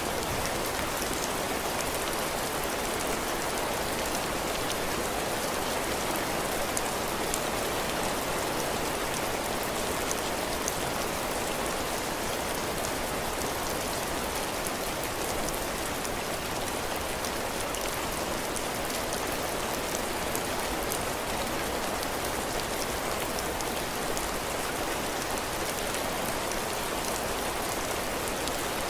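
Heavy rain falling steadily on a cabin porch's roof and floor, a dense even hiss with countless small drop ticks.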